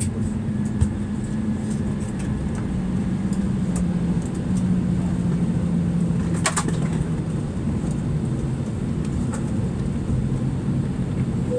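Steady low mechanical drone inside an Airbus A320-214's cabin on the ground after landing, with a hum that slowly drops in pitch during the first several seconds. A few light clicks sound over it, the sharpest about six and a half seconds in.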